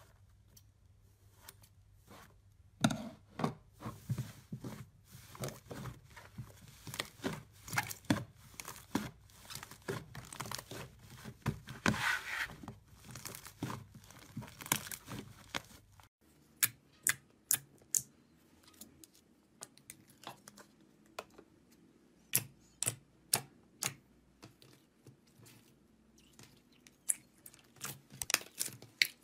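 Close-miked crackling, crinkling and tearing of a crunchy material being squeezed and pulled apart. About halfway through this gives way to a run of sharp, separate crunching clicks.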